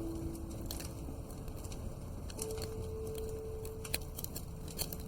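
Wood fire crackling in a fireplace, with irregular sharp pops over a steady hiss, the loudest pop about four seconds in. A soft held music note sounds underneath in the second half.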